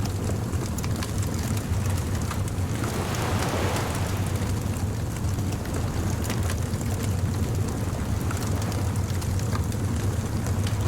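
Ocean surf washing in under a steady low rumble, one wave swelling up about three seconds in, with a bonfire crackling in small sharp pops.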